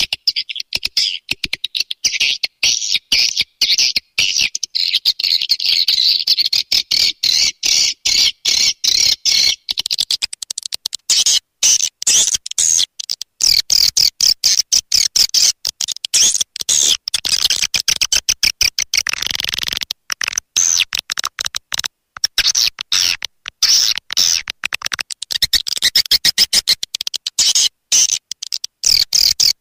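Swiftlet (burung walet) calls: a loud, dense, rapid twittering of high chirps that goes on without a break. This is the swiftlet calling sound that is played to lure swiftlets to nesting houses.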